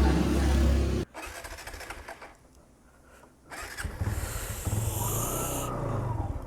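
Motorcycle engine: a loud low rumble cuts off abruptly about a second in, then after a quiet gap the engine starts up again about three and a half seconds in and runs with an even, pulsing beat.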